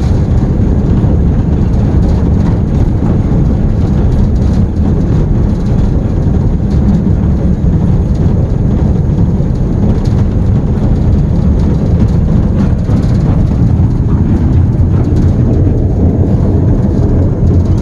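Diesel locomotive heard from inside its cab, the engine working in a low power notch as the train rolls along the track: a loud, steady low rumble.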